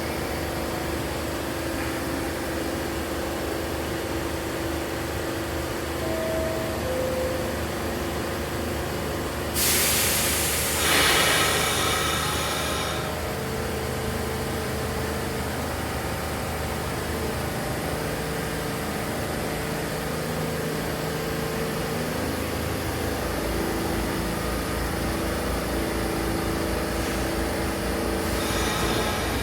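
An R46 subway train's steady running hum, with two short falling tones about six seconds in. A loud burst of compressed-air hiss follows a few seconds later and fades over about three seconds. Near the end a deeper throbbing motor hum builds, with another brief hiss.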